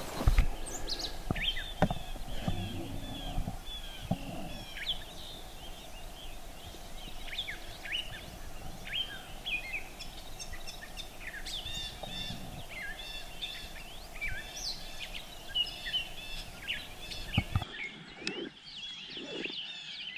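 Many small songbirds chirping and trilling at once, a busy morning bird chorus. A couple of sharp low thumps come in the first two seconds.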